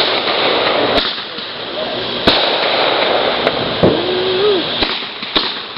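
Consumer fireworks going off: about five sharp bangs spaced a second or so apart over a constant crackling hiss. A brief voice-like exclamation is heard a little before the fourth bang.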